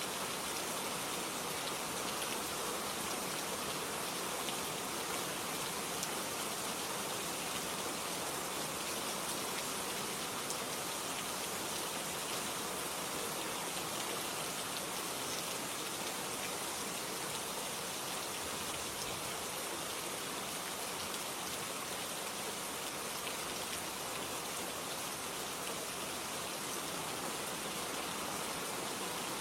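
Steady rain falling, an even hiss of many fine drops on a surface.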